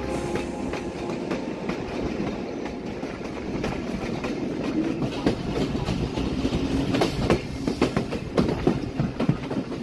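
Broad-gauge intercity passenger train running, its wheels clattering over the rail joints. From about five seconds in the clanks come sharper, louder and more frequent.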